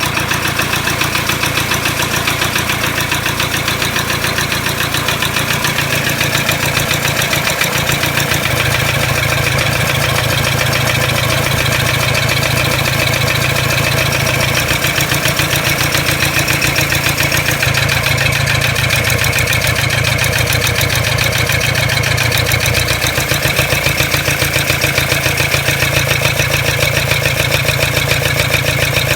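Toyota Hilux 1KD-FTV four-cylinder turbo diesel idling with a steady rhythmic rattling knock, which the owner suspects is a cracked piston. The low engine note shifts a few times.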